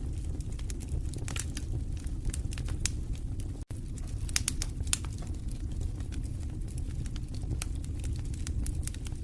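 Wood fire in a fireplace crackling, with irregular sharp snaps and pops over a steady low rumble of burning. The sound drops out for a split second about a third of the way in.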